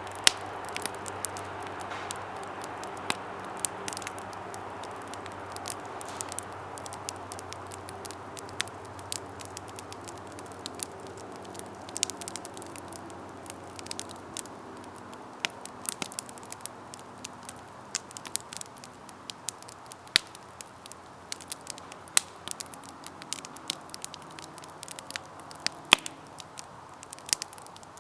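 Campfire burning: a steady hiss of flames with frequent irregular crackles and pops of burning wood, the hiss easing off slowly, and one sharp loud pop near the end.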